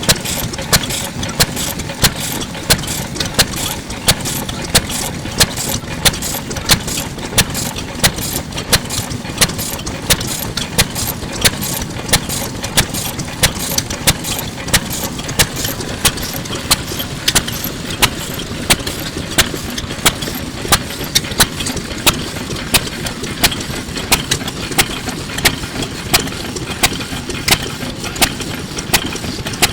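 Kubota Type F 2.5 hp single-cylinder stationary petroleum engine running steadily, with a sharp regular beat about twice a second over a low continuous chugging.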